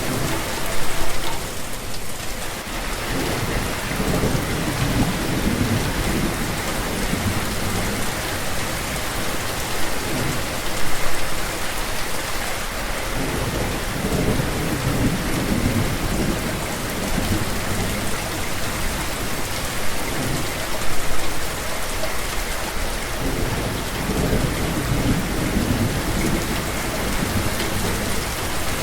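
Steady rain falling, with low rolling rumbles of thunder that swell and fade several times.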